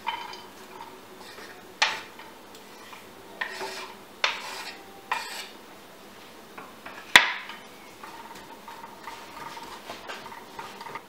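Kitchen utensils and dishes clinking and knocking: about half a dozen separate clinks, the sharpest one about seven seconds in.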